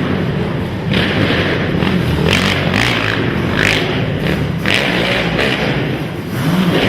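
Several racing ATV (quad) engines running hard on the track, revving up and down with repeated surges as riders throttle on and off.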